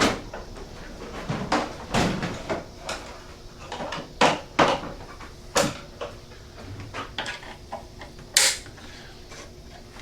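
Irregular clicks, clacks and knocks from hands working on a motorcycle's parts, about a dozen separate short sounds with a few sharper ones, including one about eight seconds in.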